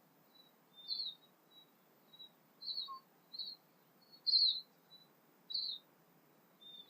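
A bird giving short, high chirps about once a second, with quieter notes in between, over faint outdoor background noise; the loudest chirp comes past the middle.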